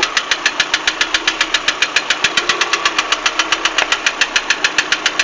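Lada Priora's 1.6-litre 16-valve VAZ-21126 four-cylinder engine running with a strong, distinct knock repeating evenly about nine times a second. The knock does not change when the wire is pulled from any one coil. Its cause is a broken piston: the third piston has lost part of its skirt on the exhaust side.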